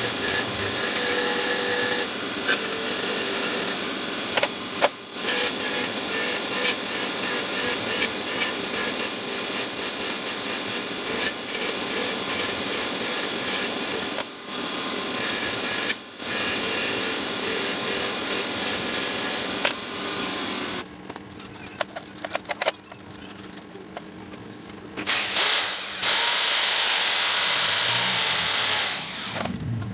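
A power tool running steadily in a workshop, stopping briefly a few times, then going quiet for about four seconds with a few small clicks before running again.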